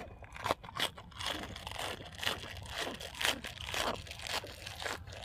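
A person chewing and biting food close to the microphone, with a run of irregular crisp crunches.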